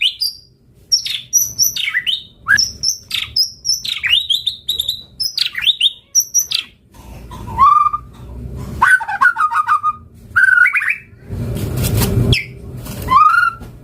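White-rumped shama singing a fast, varied song of short whistled phrases: high falling sweeps at first, then lower, steadier whistles in the second half. A brief harsh, noisy burst comes about eleven seconds in.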